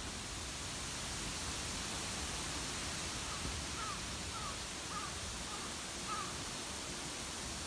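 A bird calling outdoors, a run of about six short notes from about three seconds in until just past six seconds, over a steady background hiss.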